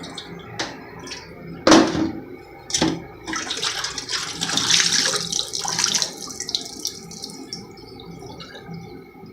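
Collected water from a dehumidifier's tank being poured out, a splashing pour lasting about three seconds, after two sharp knocks a second apart.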